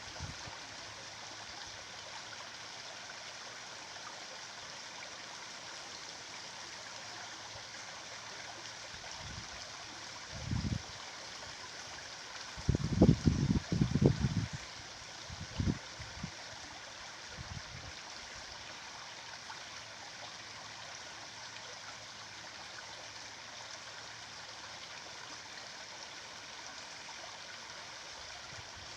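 Stream water flowing steadily with an even rush. Partway through, a short run of low thumps or rumbles stands out, louder than the water.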